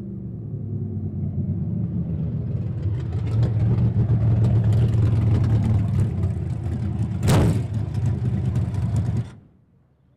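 Race car engine running hard at speed, growing louder about two seconds in as it accelerates. Near the end there is a brief loud burst, and then the sound cuts off suddenly.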